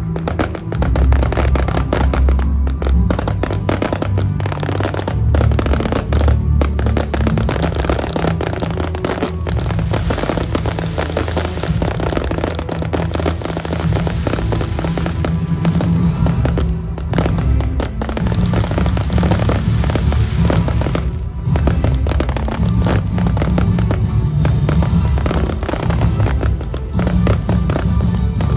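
A fireworks display: dense, continuous bangs and crackles without a break, with music and its steady bass playing alongside.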